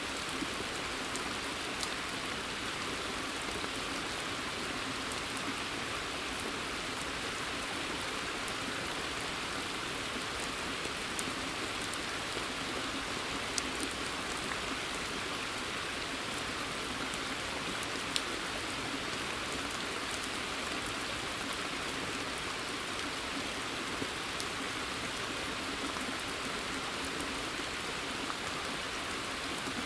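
Steady rain falling, an even hiss with a few sharp, louder single drops now and then.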